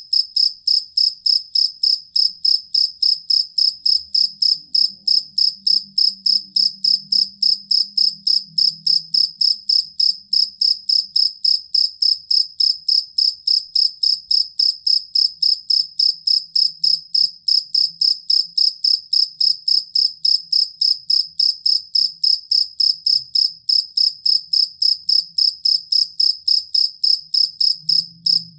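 Field cricket (jangkrik kalung) calling: a steady, even train of short, clear, high-pitched chirps, about four a second.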